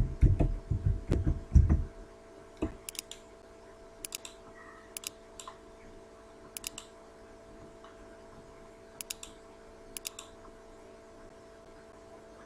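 Typing on a computer keyboard for the first couple of seconds, then scattered clicks of a computer mouse, several coming as quick double clicks, over a faint steady electrical hum.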